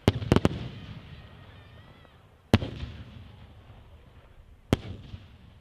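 Fireworks exploding in sharp bangs: a quick cluster of three or four at the start, then single bangs about two seconds apart, each followed by a rolling echo.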